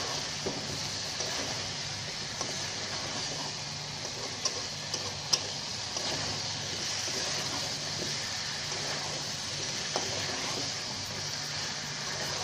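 Papaya and potato cubes frying in oil and masala in a metal pan, a steady sizzle while a spatula stirs them, scraping and knocking against the pan a few times, sharpest about five seconds in. This is the kashano stage, the vegetables being sautéed in the spices before water goes in.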